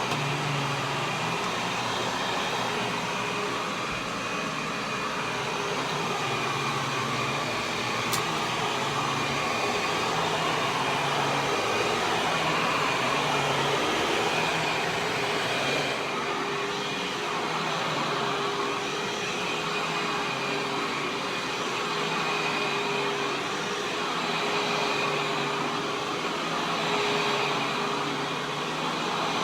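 Dirt Devil Featherlite bagless upright vacuum cleaner running steadily: the rush of its suction motor with a high whine over it, swelling and easing a little from moment to moment.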